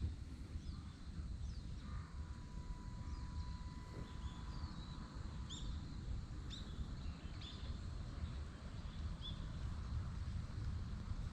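Small birds calling with short, sharp, high chirps, several in a row through the second half, over a steady low outdoor rumble.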